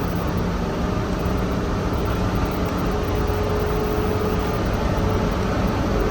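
Steady rumble of a city bus in motion, heard from inside, with a faint steady whine that comes in about halfway through.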